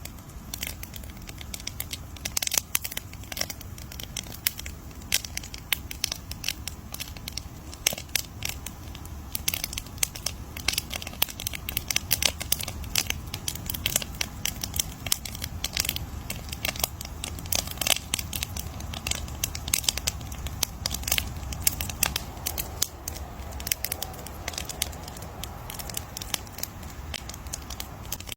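Campfire crackling: dense, irregular sharp pops and snaps over a low steady rumble.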